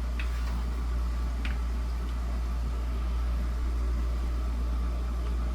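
A steady low hum with two light clicks, one just after the start and one about a second and a half in, from a screwdriver and screws at the fan's front guard as it is fastened back on.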